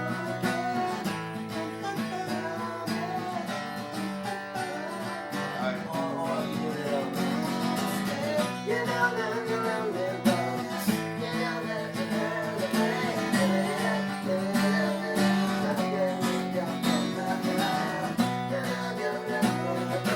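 Acoustic guitars strumming a chord progression, with a wavering melody line over it through the middle.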